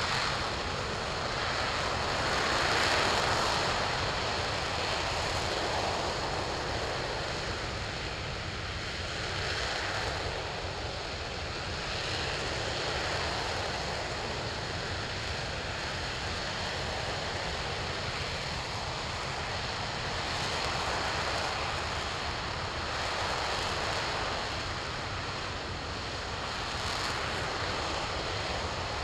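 RS-25 liquid-hydrogen/liquid-oxygen rocket engine firing on a test stand: a steady rushing roar with slow swells in loudness.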